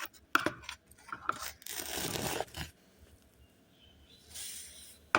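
Homemade slime of glue, contact lens solution and face wash being mixed in a bowl, still sticky: a few sharp clicks, then two stretches of rustling, crackling handling noise with a quieter spell between them.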